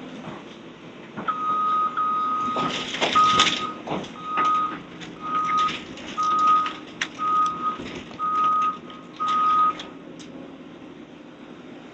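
Heavy equipment's backup alarm beeping about once a second for roughly eight seconds, over a running engine, with scattered knocks and clatter of debris.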